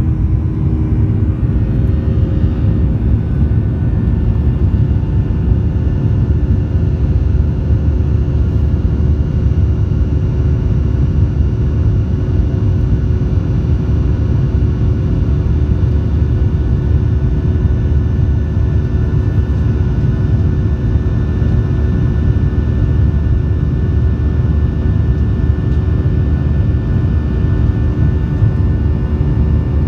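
Boeing 737-800 jet engines running at takeoff power: a loud, steady rumble with a constant whine of several tones over it, which dips slightly in pitch in the first couple of seconds and then holds.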